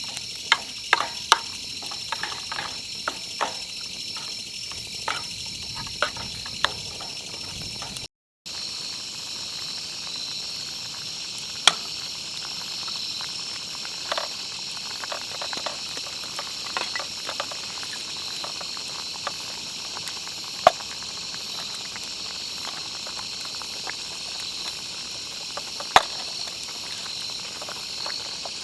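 Insects trilling steadily, with sharp pops and clicks scattered over it, many in the first few seconds and fewer later. Sound cuts out briefly about eight seconds in.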